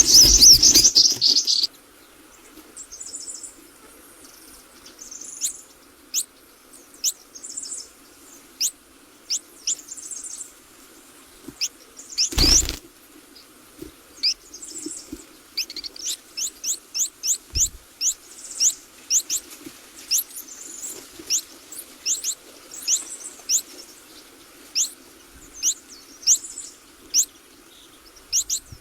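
Small birds at a nest chirping: short, sharp, high chirps that fall in pitch, sparse at first and coming quickly and steadily in the second half. A loud, noisy fluttering burst fills the first second and a half, and a single knock sounds about twelve seconds in, over a faint steady low hum.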